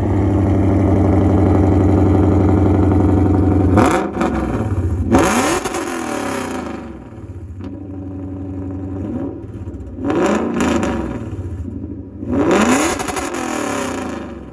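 2015 Lexus RC F's V8 with aftermarket headers and a titanium valved exhaust, idling high and steady for a few seconds. It is then blipped about four times, each rev climbing sharply and falling back to idle.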